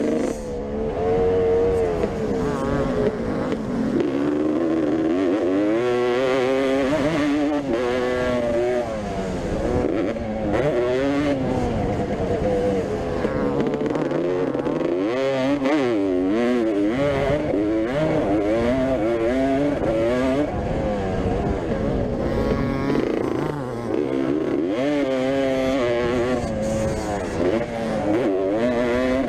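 Motocross bikes racing, their engines revving up and down over and over as they accelerate, shift and back off, several engines overlapping.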